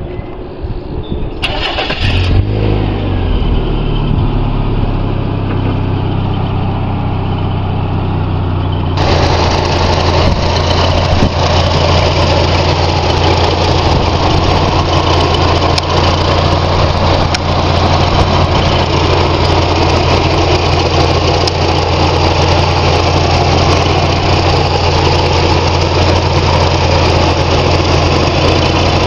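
1991 Mazda Miata's 16-valve four-cylinder engine starting about two seconds in, then settling into a steady idle. From about nine seconds in it sounds brighter and fuller.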